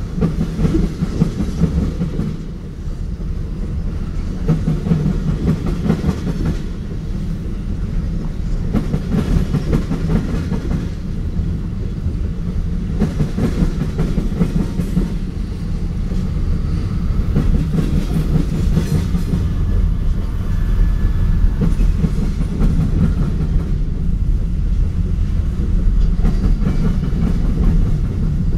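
Freight train's tank cars and covered hopper cars rolling past close by: a steady low rumble of steel wheels on rail, with irregular clicks and clacks from the wheels.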